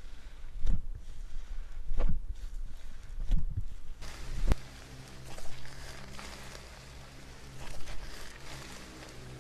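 Slime being pressed and squished by hand, with soft squelches about every second and a half, then a sharp click about halfway through followed by quieter, finer crackly handling sounds.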